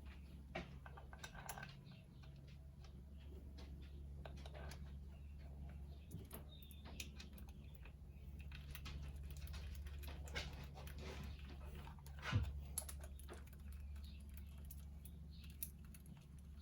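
Faint scattered clicks and taps of hand tools and small metal bolts while the water pump cover bolts are fitted to an ATV engine's case, over a steady low hum.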